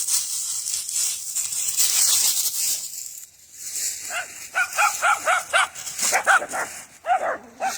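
Rustling, crunching noise for the first few seconds, then a small dog barking rapidly in short, high-pitched barks, several a second.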